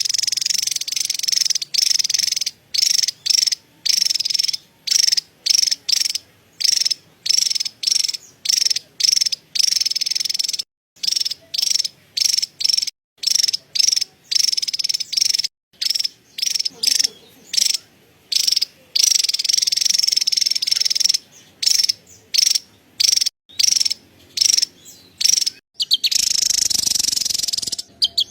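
Javan tesia chattering: a rapid, high-pitched cerecet call in runs of about half a second to a second, separated by brief gaps, running on unbroken for about two seconds near the end.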